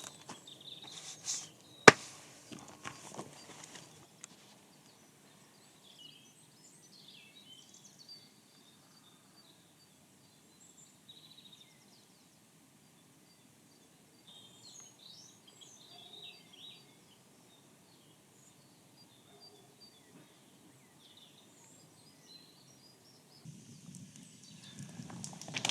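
Faint, scattered birdsong with short high chirps in a quiet wood. About two seconds in there is one sharp, loud click amid brief clattering, and near the end rustling and handling noises start.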